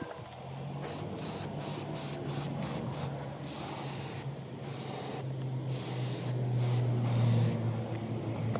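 Aerosol spray can of clear lacquer hissing in a run of short blasts with a few longer ones, the nozzle pressed and released over and over, over a steady low hum.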